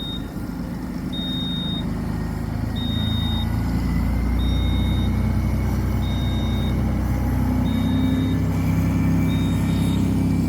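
A heavy engine running with a steady low rumble that grows louder over the first few seconds. A high electronic beep sounds about every one and a half seconds throughout.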